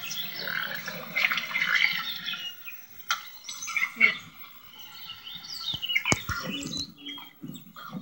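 Birds calling: a busy run of short chirps and squawks. A single sharp click comes about six seconds in.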